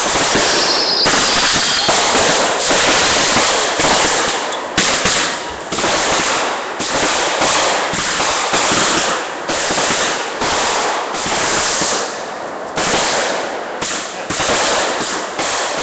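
Fireworks going off in a dense, continuous barrage of rapid crackling and popping, swelling and easing in waves about once a second.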